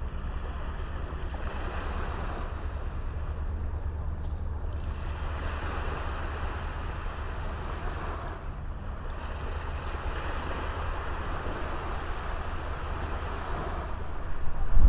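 Small sea waves washing onto a beach, swelling and easing every few seconds, over a steady low rumble of wind on the microphone.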